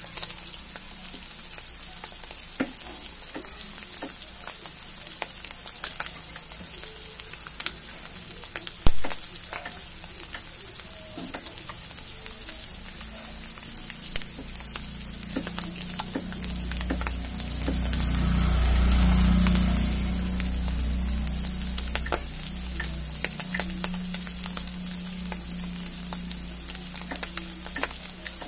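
Diced meat and corn kernels sizzling in hot oil in a wok, with a steady hiss and scattered crackling pops. A metal spatula stirs and scrapes the pan now and then, with one sharp knock about nine seconds in.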